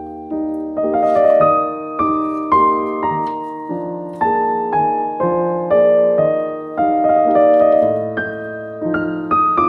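Background piano music: a gentle melody of single struck notes over soft sustained chords.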